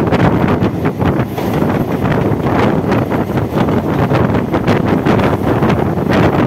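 Loud wind buffeting the microphone at the open door of a moving Mumbai suburban EMU train, over the train's running noise on the track, with frequent short irregular knocks.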